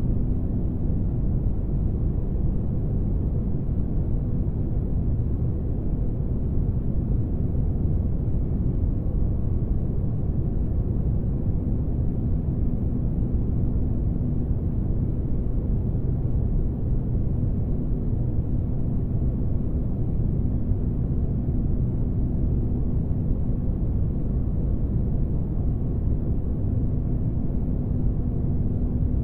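Spaceship-interior ambience noise: a steady, deep rumbling drone with a faint constant hum underneath, unchanging throughout.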